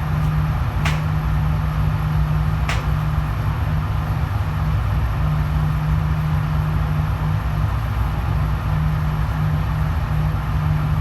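Steady low hum and rumble of an indoor shooting range's ventilation system. Two faint, sharp clicks come about one and about three seconds in.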